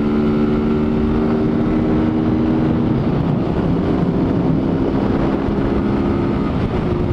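Motorcycle with its stock exhaust running under way at a steady pace; the engine note drops about three seconds in, then holds steady again.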